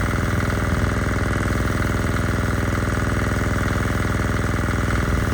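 An engine running steadily at an even idle, with a constant droning hum.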